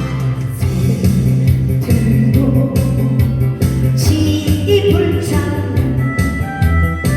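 A woman singing a song over a backing track of bass, guitar and a steady drum beat.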